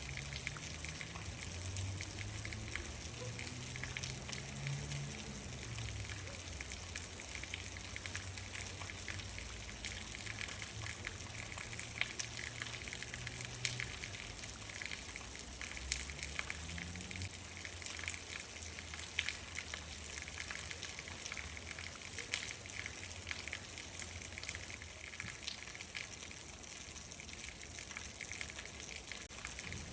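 Steady rainfall with many separate drop taps through the hiss. A faint low rumble rises and falls underneath in the first few seconds and again about halfway through.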